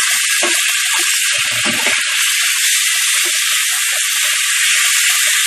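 Marinated chicken pieces sizzling and crackling in hot vegetable oil in a frying pan, a steady loud hiss with popping throughout. A short clatter about one and a half seconds in.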